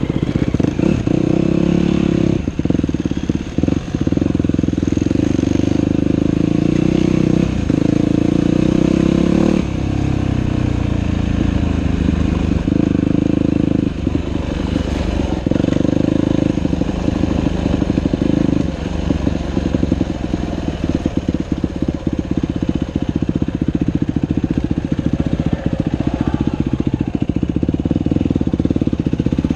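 Dirt bike engine running while it is ridden on a trail, the revs rising and falling with the throttle. Many short knocks come through in the second half.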